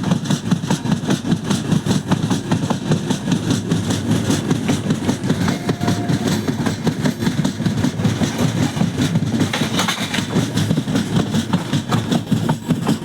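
Train running along the track: a steady low rumble with rapid clattering and rattling of the wheels and coach over the rails.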